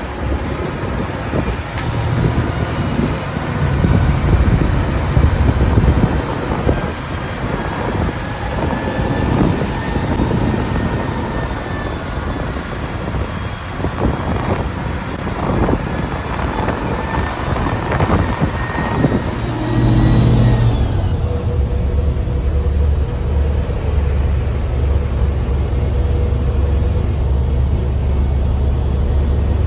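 Mercedes-Benz bus engine pulling under load, with a high turbo whistle rising and falling twice. About twenty seconds in the whistle cuts off and the engine settles to a steady low drone.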